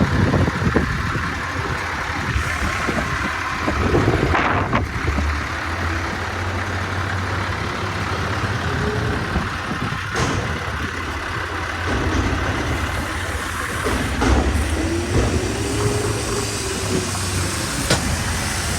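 Heavy diesel truck engine, an inline-six Paccar PX-8, idling steadily with a low hum. A few sharp clicks or knocks sound over it, about three in all.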